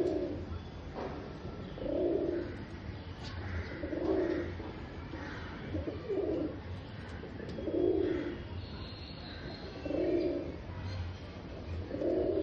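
Domestic pigeon cooing in courtship, a low coo phrase repeated about every two seconds.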